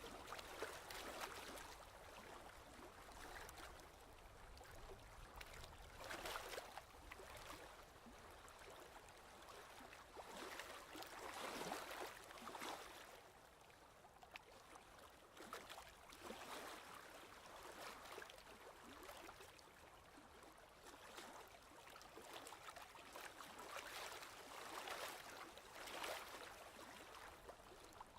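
Faint ocean waves washing in, the surf swelling and falling away every few seconds.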